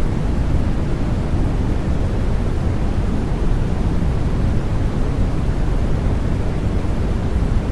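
Steady white-noise sleep sound for babies: an even, unbroken rushing hiss, deep in tone with most of its weight low down, that does not change.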